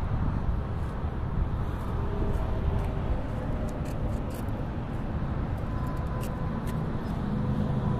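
Steady low vehicle rumble with a few faint steady tones and scattered light ticks.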